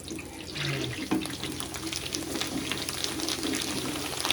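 Hot cooking oil sizzling and crackling as food fries in it, with a steady hiss dotted with many small pops.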